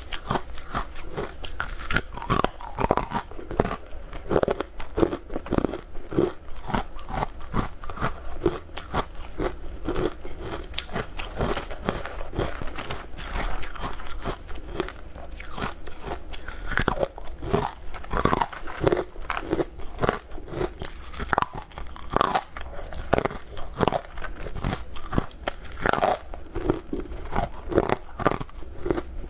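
Close-up biting and crunching of hard, translucent amber chunks of food, with many sharp, irregular crunches and chewing.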